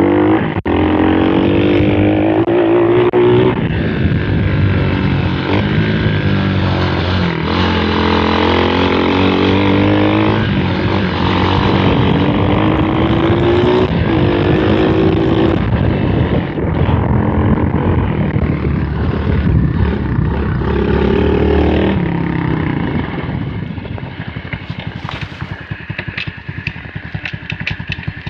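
M2R KX110F pit bike's 110cc four-stroke single-cylinder engine revving hard under riding, its pitch climbing and then dropping again at each gear change. It falls quieter and rougher for the last few seconds.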